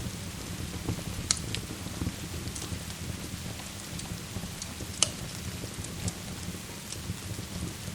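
Ambience of steady rain with a fireplace: a continuous rain hiss over a low, steady rumble, with scattered sharp crackles and pops. The loudest crackle comes about five seconds in.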